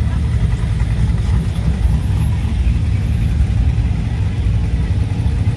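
Car engine running at low revs, a steady deep rumble with no change in pitch.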